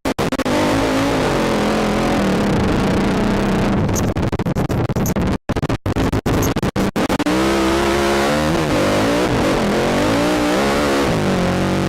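ATV engine revving up and down as the quad is ridden, its pitch repeatedly rising and falling. The sound cuts out briefly several times between about four and seven seconds in.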